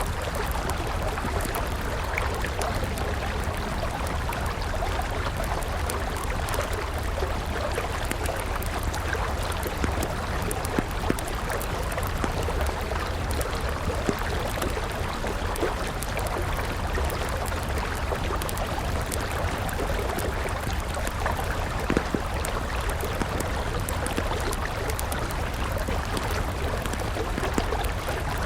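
A river flowing steadily, with a wood fire crackling over it in scattered small pops and a few louder snaps.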